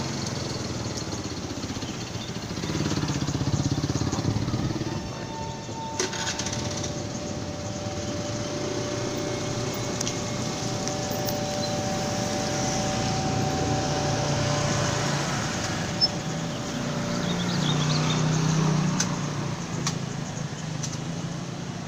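Electric commuter train running slowly past just below: steady wheel-and-track noise with thin steady whines in the middle and a couple of sharp clicks.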